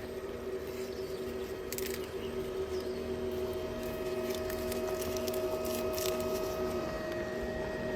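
Vacuum cleaner motor running steadily with an even hum, with a few faint clicks, as it sucks paper wasps off their nest.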